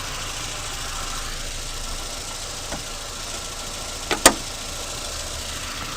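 Renault K7M 1.6-litre eight-valve petrol engine running steadily, recorded for a chatter that the owner takes for a loose valve, worn or damaged rocker adjusting screws. A sharp click about four seconds in.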